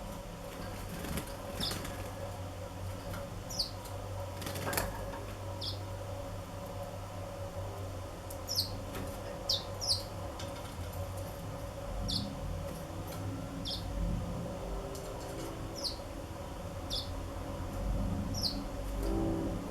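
Black-throated canaries giving short, thin chirps, each sliding down in pitch, about a dozen scattered irregularly through, with a few sharp clicks over a steady low hum.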